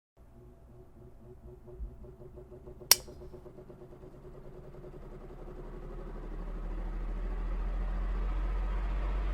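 A motor vehicle's engine running steadily, with a single sharp click about three seconds in and a deep rumble that grows steadily louder through the second half.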